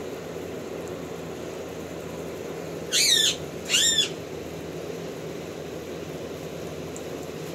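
A bird calls twice, about a second apart, each call short and wavering in pitch, over a steady low hum.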